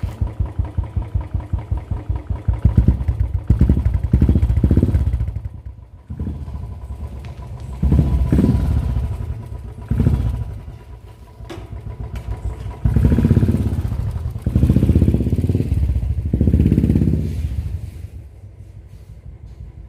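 Royal Enfield Bullet single-cylinder engine through the RE peashooter exhaust with its DB killer removed, idling with a steady thump and revved in several short throttle blips.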